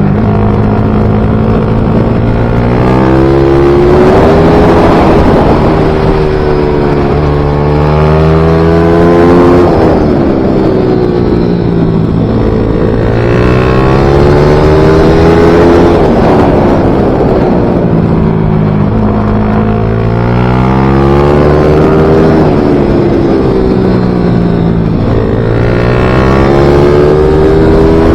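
Small racing motorcycle engine (pit bike / MiniGP bike) revving hard on a circuit lap: the engine note climbs in pitch for a few seconds, then falls back, over and over, as the rider accelerates out of corners and brakes into them.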